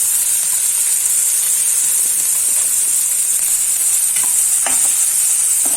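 Chopped onion, capsicum, garlic and green chilli sizzling in hot oil in a pan as they are stirred: a steady high hiss, with a few short knocks near the end.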